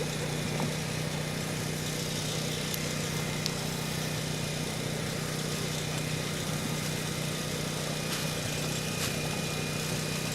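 Steady low hum over a hiss of background noise, with a few faint clicks.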